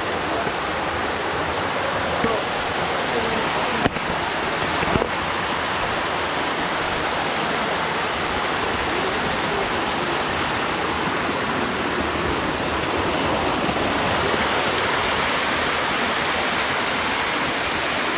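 Waterfall pouring steadily down a rock face into a pool, a loud, even rush of water, with two brief clicks about four and five seconds in.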